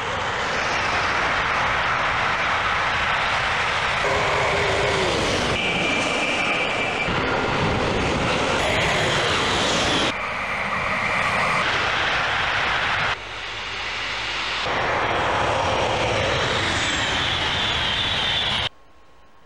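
High-speed trains passing at speed: a loud, steady rush of wind and rolling noise, in a run of short clips that cut abruptly from one to the next every second or two. It stops suddenly near the end.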